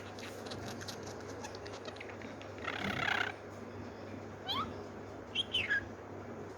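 Pet lovebird giving a short raspy call about three seconds in, followed by a few quick whistled chirps that glide up and down in pitch.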